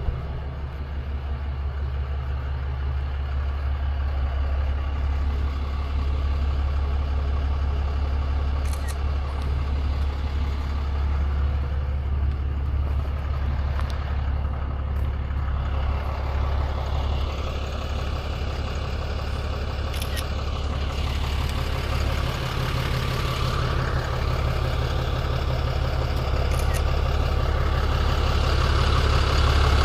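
Tow truck engine idling steadily, a low drone that grows louder near the end, with a few faint ticks.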